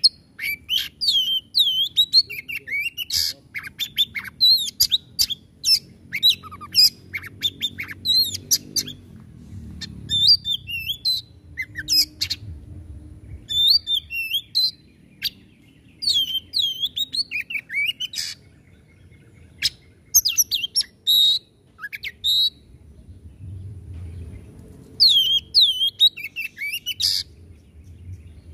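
Oriental magpie-robin (kacer) in full song: bursts of fast, varied whistles and harsh notes, broken by short pauses of about a second between phrases.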